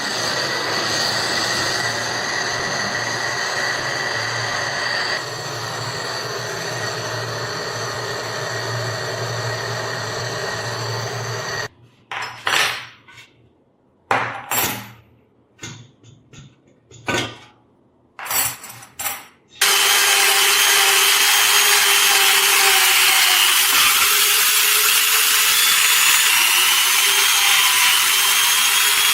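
A power tool runs steadily for about twelve seconds. Then come about eight separate hand strokes of rubbing or scraping, and then a power tool again, louder, with a wavering whine as its load changes.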